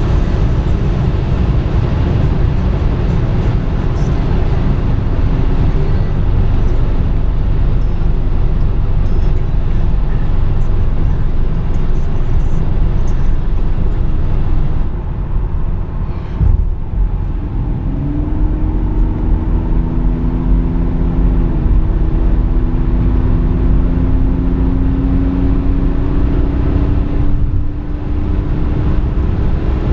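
Opel Omega B 2.5 DTI at high Autobahn speed, heard from inside: loud wind and road noise over the drone of its common-rail straight-six diesel. About halfway there is a brief lull and a click, then the engine note climbs slowly as the car pulls on, dropping away just before the end.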